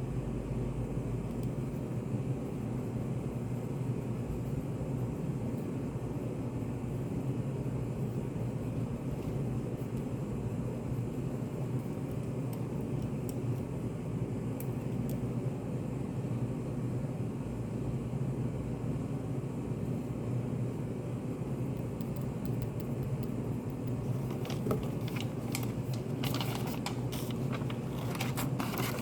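Study café room tone: a steady low hum, with light small clicks and scratches over the last few seconds.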